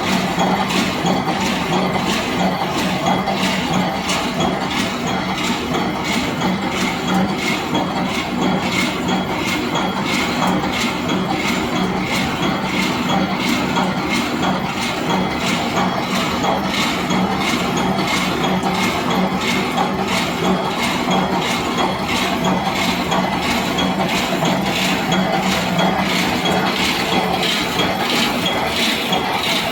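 Automatic multi-point resistance welding machine for roll wire mesh running: a steady, fast, regular mechanical clatter as it cycles, with a steady hum beneath.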